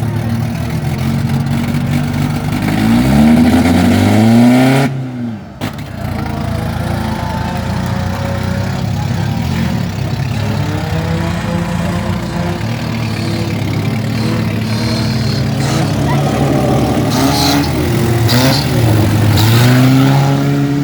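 Demolition derby car engines running and revving up and down, with a short drop-out about five seconds in and a few sharp knocks near the end.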